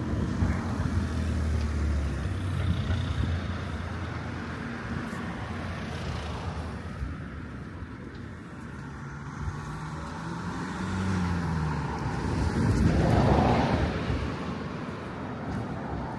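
Road traffic going by: several vehicles pass, one after another, with engine hum. The loudest passes close, swelling and fading about thirteen seconds in.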